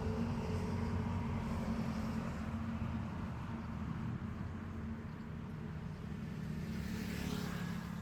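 A motor engine running steadily at a distance, a low even rumble with a faint steady hum.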